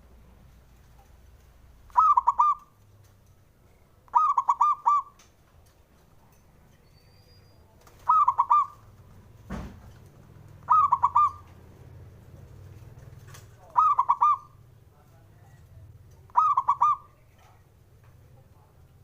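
Zebra dove (perkutut) cooing: six short phrases of quick rolling coos, one every two to three seconds.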